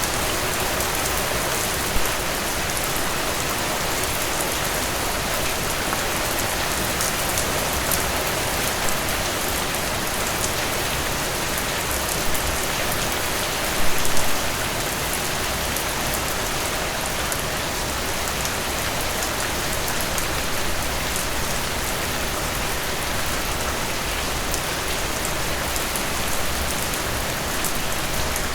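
Steady rain falling on a surface: a dense, even hiss of many drops, with a short cluster of louder drops about halfway through.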